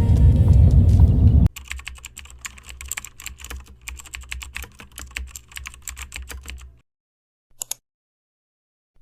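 Loud music cuts off abruptly about a second and a half in. It is followed by a few seconds of rapid, irregular light clicking like keyboard typing over a faint low hum, and then silence broken by two short clicks near the end.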